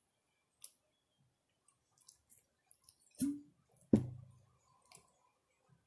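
Chewing a mouthful of chicken wrap close to the microphone: scattered soft, wet mouth clicks. Two louder knocks come a little after three seconds and at about four seconds, the second trailing off in a short low hum.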